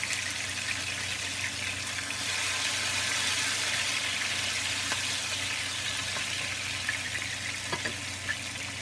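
Chopped chillies and aromatics sizzling in hot oil in a nonstick frying pan: a steady hiss, with a wooden spoon stirring through the pan partway through.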